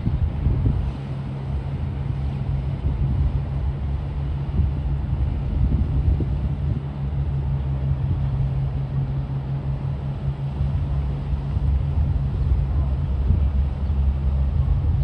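Engine of a passing river boat making a steady low drone, growing a little louder toward the end.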